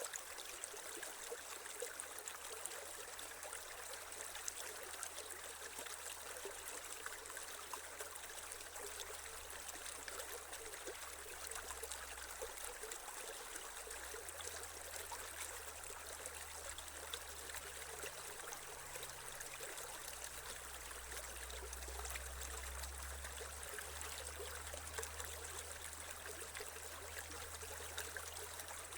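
Shallow creek water flowing and trickling steadily over stones, with a faint low rumble beneath it.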